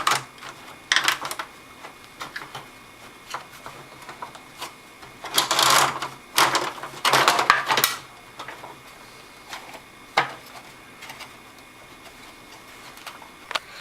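Plastic vacuum cleaner parts being handled and fitted together: scattered clicks, knocks and short rustling clatters, busiest in the middle.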